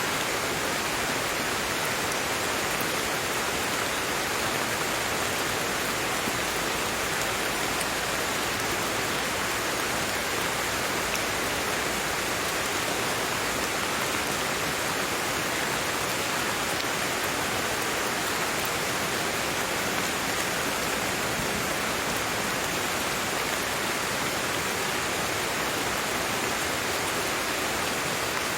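Steady rain falling, a dense even hiss that does not change.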